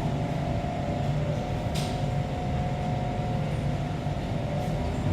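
Kawasaki C151 metro train running, heard on board: a steady low rumble with a steady hum above it. A brief hiss comes about two seconds in.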